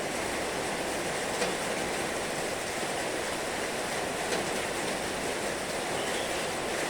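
Heavy rain falling in a steady, even hiss, with a few sharper ticks of drops now and then.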